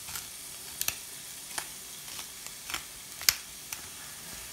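Onions and green capsicum frying in oil in a stainless steel pan: a steady sizzling hiss with scattered sharp pops and crackles, the loudest a little past three seconds in.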